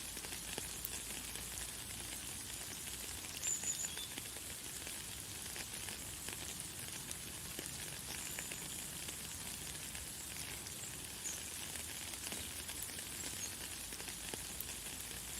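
Light, fine rain falling steadily, an even hiss with scattered drop ticks. A few brief high bird chirps sound over it, the clearest about three and a half seconds in.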